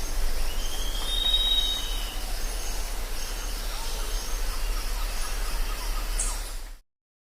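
Jungle ambience: a steady hiss of insects with faint, repeated high chirps, and one long whistled call about a second in that glides up and then holds. The sound cuts off abruptly to silence near the end.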